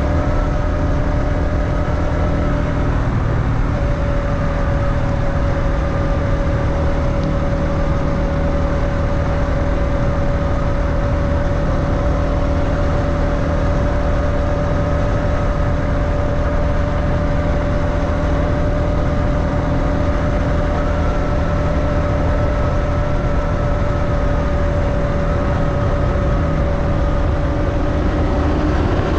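Motorbike engine running at a steady cruising speed, its drone holding an even pitch, with wind rushing over the microphone.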